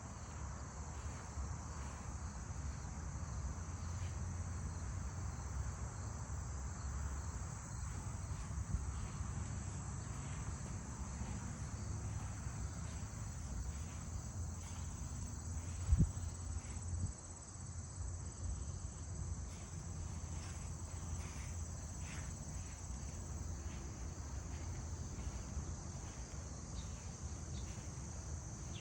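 Steady chorus of crickets, with a low rumble underneath and a single sharp knock about halfway through.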